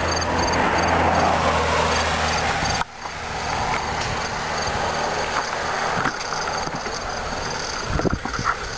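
Steady rushing wind and road noise on the microphone of a moving bicycle, with insects chirping in a fast, even pattern; the noise drops out sharply for a moment about three seconds in.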